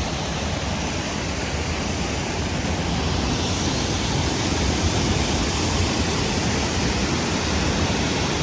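Steady rushing of a waterfall, a constant full noise with no breaks.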